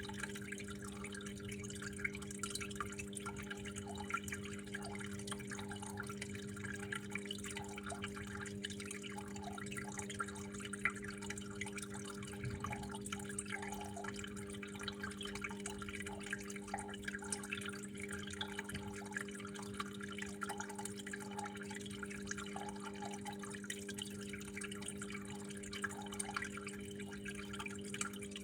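Water flowing and dripping steadily, a dense patter of small drops splashing, over a constant low hum.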